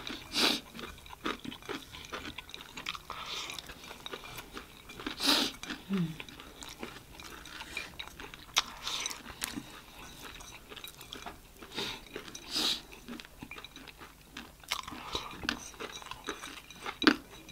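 Close-miked chewing and crunching of chatpate, a spicy puffed-rice snack, by two people. The crisp crunches come in irregular short bursts.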